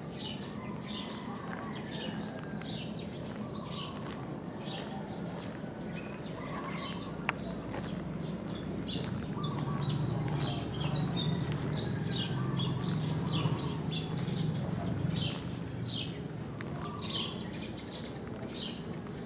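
Outdoor birdsong, many short chirps repeating throughout, over a low steady rumble that grows louder in the middle.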